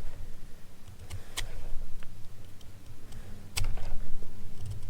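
Hand-crafting noise: two sharp clicks about two seconds apart over a low rumble of handling.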